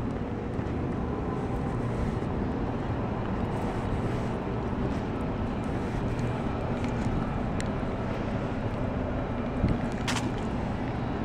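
Steady low rumble of vehicle noise, with a brief sharp click about ten seconds in.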